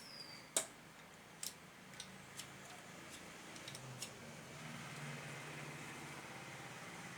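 Small metal parts and tools clicking and clinking as an engine is assembled by hand: a handful of sharp clicks over the first few seconds, the first the loudest, with a faint low hum behind.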